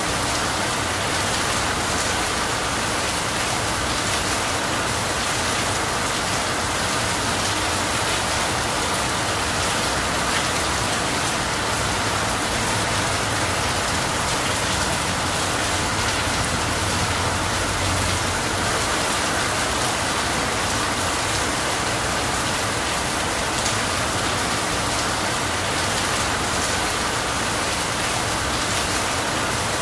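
Steady heavy rain falling evenly, without let-up.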